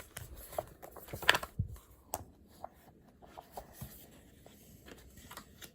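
Small clicks, taps and rustles of objects being handled on a desk, with a sharper click about 1.3 s in.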